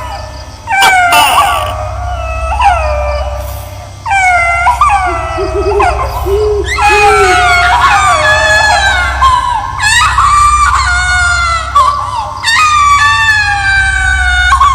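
Horror sound effect of a baby crying: a run of drawn-out wailing cries, each sliding down in pitch and coming every second or two, over a steady low drone.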